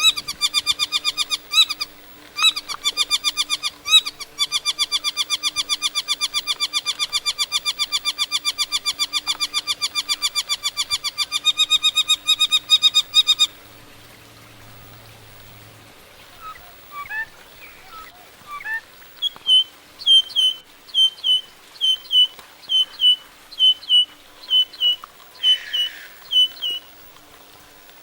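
Birds calling: a long, rapid series of repeated harsh, ringing notes, several a second, for about thirteen seconds, then after a short pause some scattered notes and a series of short, sharp, high calls about two a second.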